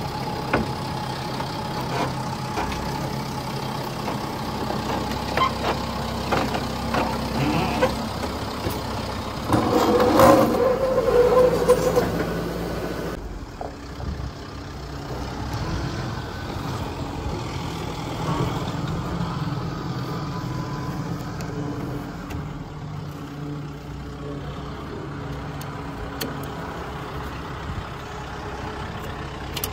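Truck engine running steadily, with scattered clanks and knocks. A louder rattling clatter about ten seconds in lasts a couple of seconds, and the sound changes abruptly shortly after.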